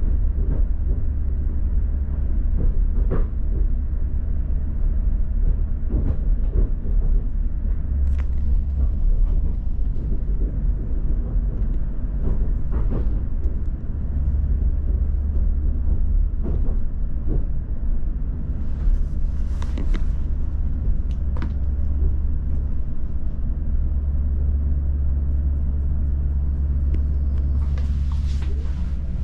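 Passenger train heard from inside the carriage, running slowly on the rails: a steady low rumble with scattered knocks and rattles, and a brief hiss near the end as it comes in to its final stop.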